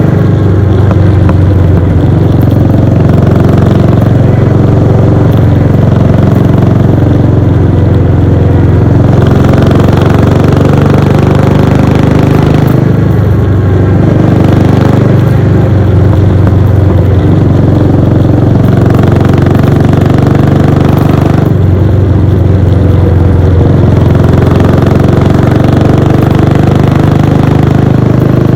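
Royal Enfield Bullet 500's single-cylinder engine and exhaust running steadily while cruising, its note shifting a few times through the stretch.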